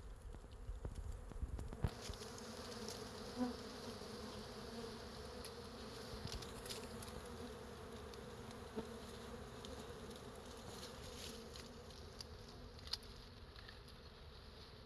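A mass of wild honey bees on an open hive buzzing in a steady hum, which grows fuller about two seconds in, with a few faint clicks.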